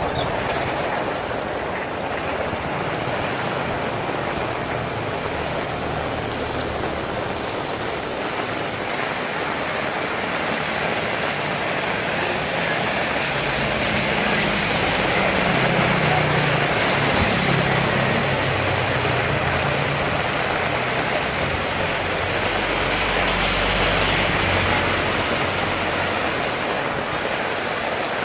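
Heavy rain falling steadily. A motor vehicle engine hums past about halfway through, and the rain noise swells again near the end.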